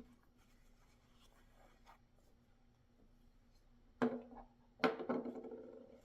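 Packaging handled during a knife unboxing: faint small taps and rustles, then two louder handling noises less than a second apart near the end, the second trailing off over about a second.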